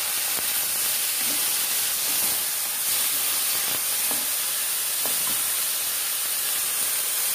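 Carrot, bell pepper and shrimp sizzling in a hot wok, a steady hiss, while a wooden spatula stirs them with a few faint scrapes and knocks against the pan.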